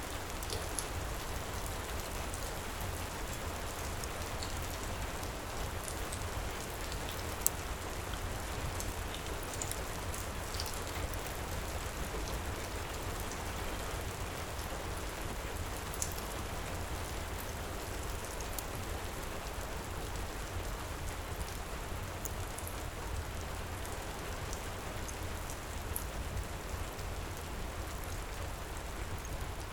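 Steady heavy rain, with scattered sharp crackles and pops from a wood fire in a fireplace; the loudest pop comes about a third of the way in.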